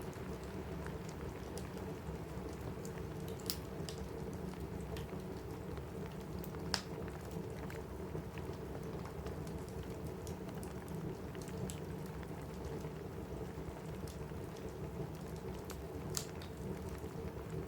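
Steady rain on a cabin roof with scattered sharp pops and crackles from a wood fire in a fireplace. The loudest pop comes a little under seven seconds in, with two other clear ones near three and a half and sixteen seconds.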